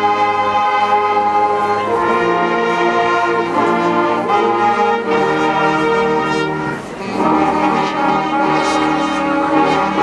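High school marching band playing a slow piece, its brass section holding full sustained chords that change every second or two, with a brief drop about seven seconds in before the next chord.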